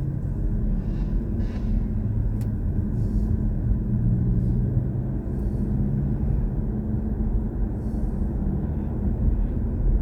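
BMW i4 M50 electric car driving, with a steady low road and tyre rumble.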